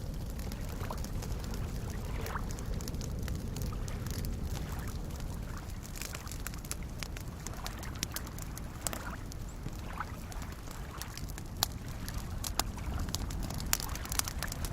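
Campfire crackling with sharp pops, more frequent in the second half, over a steady wash of soft waves lapping on a lakeshore.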